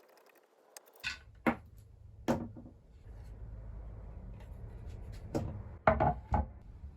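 A series of sharp knocks and clunks, like objects being handled and set down on a hard wooden surface, over a low steady hum that starts about a second in.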